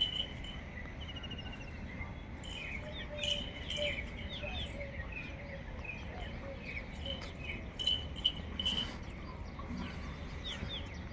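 Birds chirping in short, varied calls and small pitch-gliding notes, with a quick trill about a second in.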